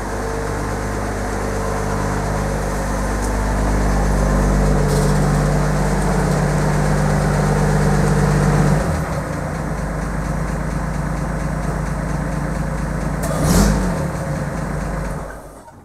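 A 1930s Chevrolet sedan's engine idling steadily. The note changes about nine seconds in, and there is a brief louder blip about thirteen seconds in before the engine is shut off near the end.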